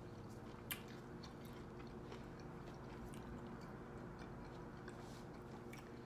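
A person chewing a mouthful of veggie tortilla wrap with their mouth closed: faint chewing with scattered small mouth clicks, one sharper click a little under a second in, over a steady low hum.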